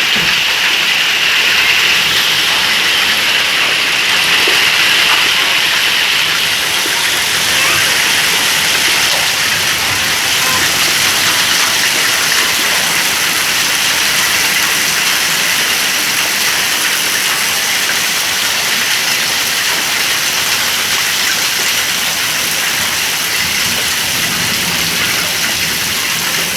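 Rain falling steadily: a dense, even hiss with no letup.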